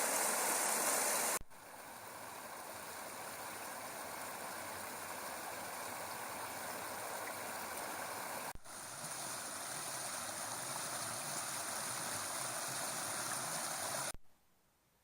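Steady rush of a small burn running over rocks. The sound jumps in level twice, a little over a second in and about halfway through, and falls away just before the end.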